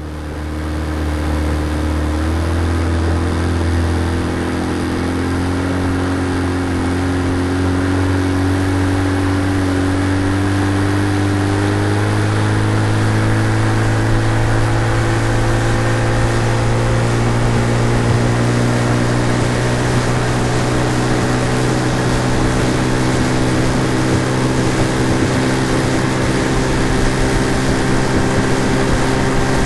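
Outboard motor sound effect, running steadily. Its pitch rises slowly over the first dozen seconds or so as it speeds up, then holds level.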